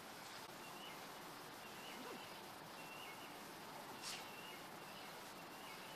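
Faint outdoor ambience: a steady hiss with a few short, high bird chirps, and one brief sharper chirp about four seconds in.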